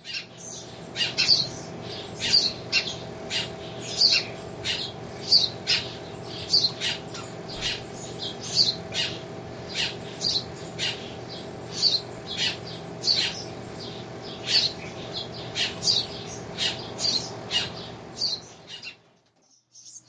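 A fledgling bird giving short, sharp, high begging calls over and over, about two a second, as it is offered food from a syringe.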